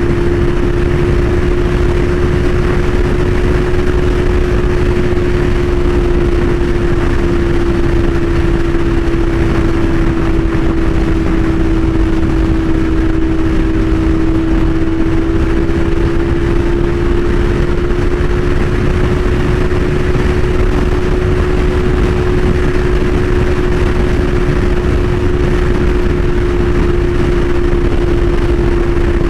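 CFMOTO 450SS parallel-twin engine running through an aftermarket slip-on exhaust at a steady cruising speed, its note held almost level and sagging slightly in the middle, with heavy wind noise on the microphone.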